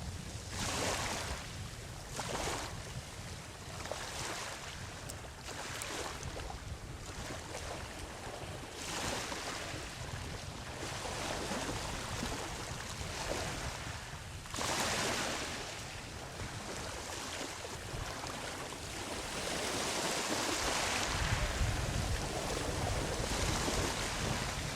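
Ocean waves breaking and washing up on a sandy beach, swelling and falling in repeated surges with a bigger, longer wash building near the end. A low rumble of wind on the microphone runs underneath.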